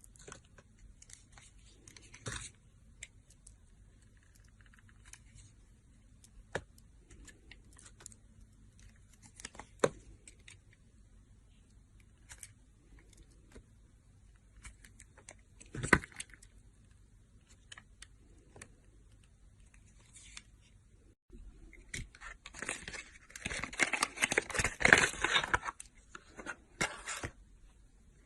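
A blade cutting into a bar of soap: scattered single crisp cuts and clicks, then, about two-thirds of the way in, several seconds of dense crunchy cutting and scraping.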